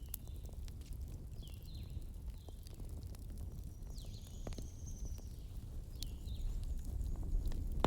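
Wood fire crackling, with scattered sharp pops and snaps over a steady low rumble, and a few brief high squeaks that slide down in pitch.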